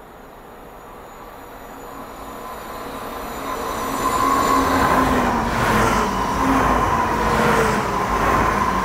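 SJ X40 double-deck electric multiple unit approaching at speed and passing close by: a rushing rail noise that grows to loud by about four seconds in and stays loud as the cars go past. A steady high whine runs through it, with lower tones sliding down in pitch as the train passes.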